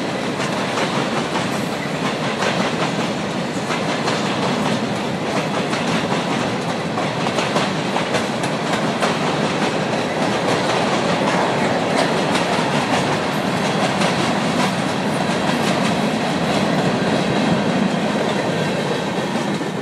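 CSX freight train of open-top hopper cars rolling past: steel wheels on rail make a steady rumble, with clicking as the wheels cross rail joints.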